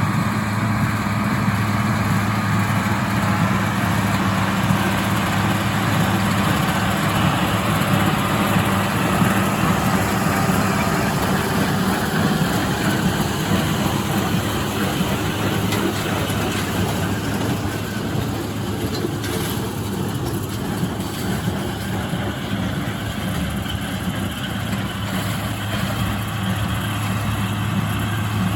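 International Harvester 886 tractor's six-cylinder diesel engine running steadily while pulling a John Deere 348 square baler, the engine's steady hum blended with the clatter of the baler working hay.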